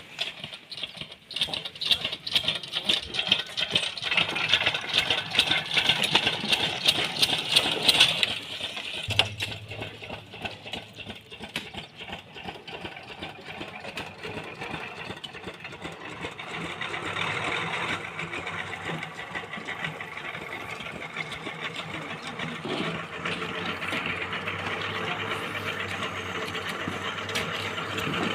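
Mechanical rattling and clattering, then from about nine seconds in a steady low engine hum that carries on.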